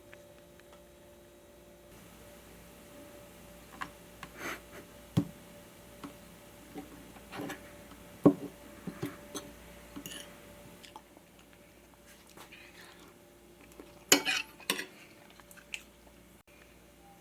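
Kitchen utensils knocking and scraping against dishes: scattered clinks and knocks, loudest about halfway through and again near the end.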